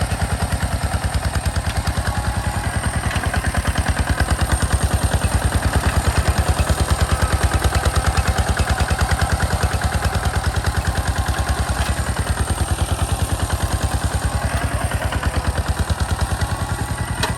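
A two-wheel walking tractor's engine running steadily with a fast, even chugging beat.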